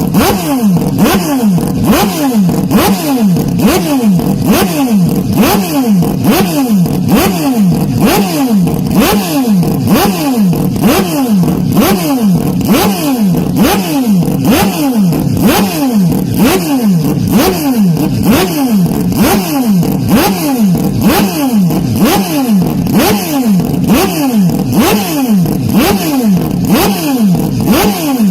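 Hyundai Elantra N's turbocharged four-cylinder engine revving up and dropping back again and again in quick succession, heavily distorted from being played far too loud.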